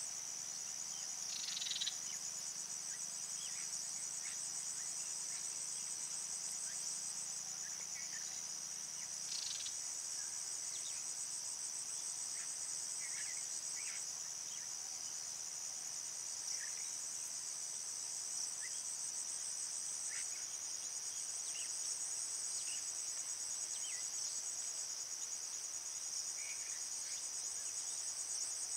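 A chorus of insects such as crickets trilling steadily in a high, finely pulsing band, with scattered short chirps from other small creatures.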